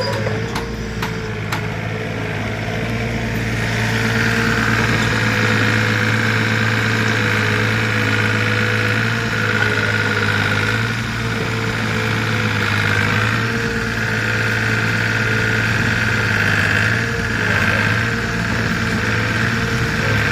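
Backhoe loader's diesel engine running steadily, with a higher whine coming in about four seconds in and holding.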